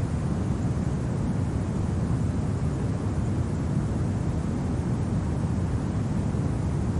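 Steady low winter wind rumbling, even and unbroken, with no gusts or crackles.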